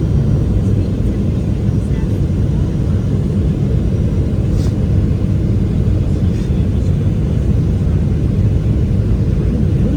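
Steady low rumble of airliner cabin noise inside a Boeing 777-300ER, the jet engines and airflow heard from a window seat, with a few faint ticks.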